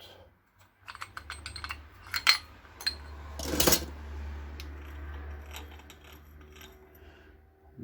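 Small metal parts and tools clinking and knocking as they are handled and set down, with a louder clatter about three and a half seconds in, over a low steady hum.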